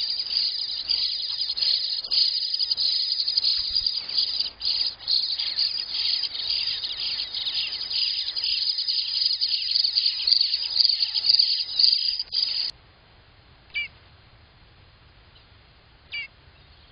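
Eastern bluebird nestlings begging inside the nest box while an adult feeds them at the entrance: a loud, dense, high-pitched chorus of rapid cheeps that cuts off suddenly about three-quarters of the way through. Two short single chirps follow.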